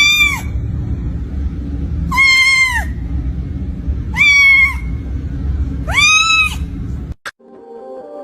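A cat meowing four times, about two seconds apart. Each meow is a high call under a second long that rises and falls in pitch, over a steady low rumble. Near the end the sound cuts off and soft ambient music starts.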